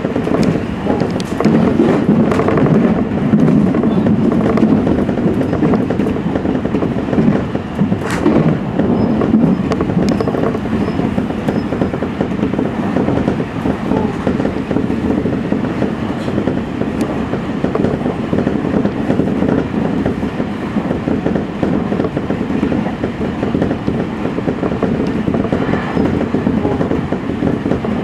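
Electric commuter train running along the line, heard from inside the front car: a steady rolling noise of steel wheels on rail. There are a few clacks as it crosses the yard points in the first seconds, and a sharper click about eight seconds in.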